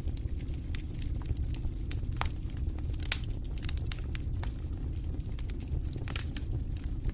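Wood fire burning in a fireplace: a steady low rumble of flames with irregular sharp crackles and pops, one louder pop about three seconds in.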